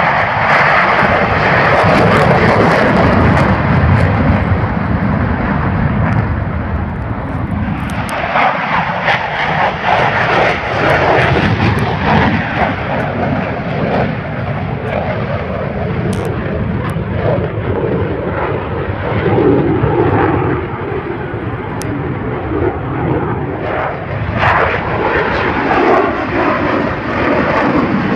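Airplane engine running loud and continuous as a plane flies an aerobatic display overhead, the sound swelling and easing as it moves.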